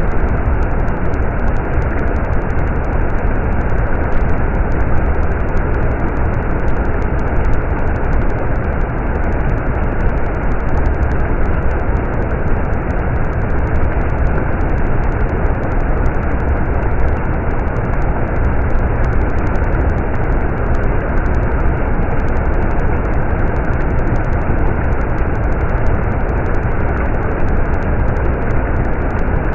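Stream of running water: a steady, unbroken rushing, heaviest in the low end.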